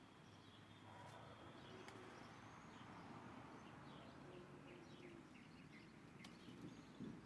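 Faint wild birdsong: scattered short high chirps, with a low rising-and-falling note repeating about every three seconds.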